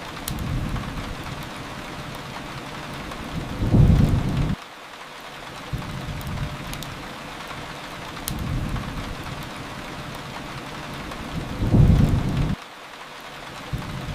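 Steady rain, with a short low rumble of thunder twice, about eight seconds apart, each cutting off suddenly. Faint crackles of a fireplace over the rain.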